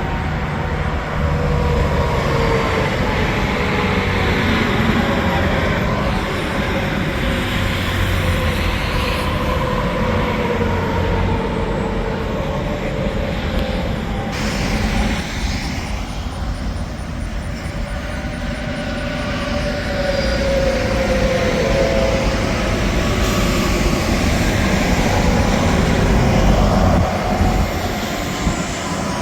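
Highway traffic at speed, mostly semi trucks and cars going by, a continuous tire-and-engine rush with tones that slowly slide in pitch as vehicles pass. The sound swells twice, about five seconds in and again near the end.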